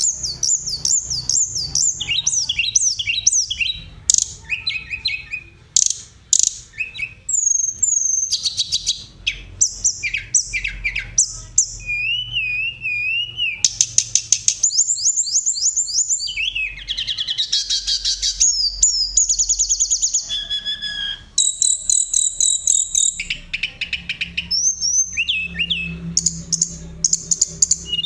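A tledekan (blue flycatcher) singing almost without pause: long, fast rolling trills mixed with clear flute-like whistles and warbling phrases, with only brief breaks, the fullest song of a bird in top form.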